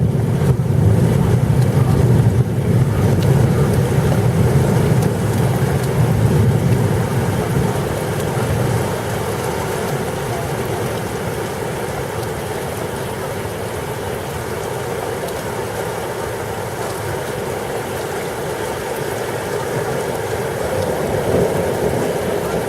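Thunderstorm: a steady hiss of rain and wind with a long low rumble of thunder that dies away over the first eight seconds or so.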